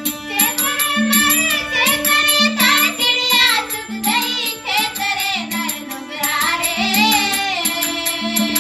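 A devotional bhajan: a solo voice sings a melodic line over a repeating low instrumental figure and steady, evenly spaced percussion. The voice enters just after the start and drops out near the end, while the accompaniment carries on.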